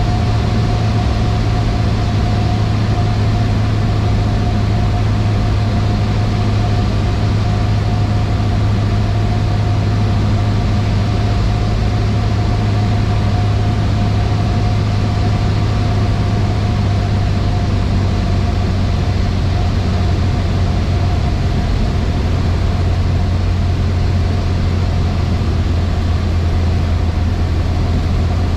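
Cessna 152's four-cylinder Lycoming engine and propeller running steadily, heard from inside the cockpit: an even low drone with a fainter steady whine above it.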